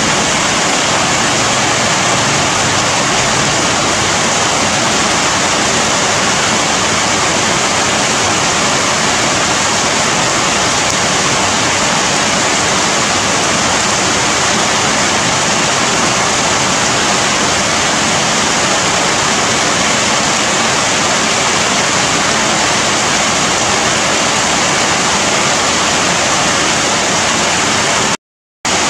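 Steady rain falling on dense foliage, an even hiss of drops. It cuts out completely for about half a second near the end.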